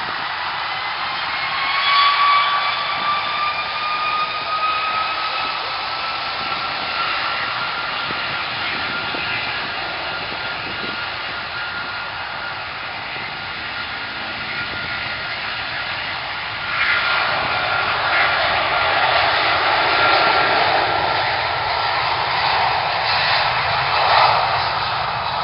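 Jet airliner engines with a whine that rises slowly in pitch. About two-thirds of the way through, a louder rushing jet noise comes in suddenly and holds: the engines spooling up.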